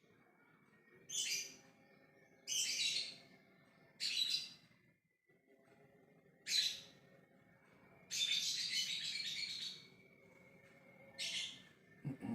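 Lovebird calling: short harsh, shrill chirps every second or two, and about eight seconds in one long chattering call of nearly two seconds, the trill that Indonesian keepers call 'ngekek'.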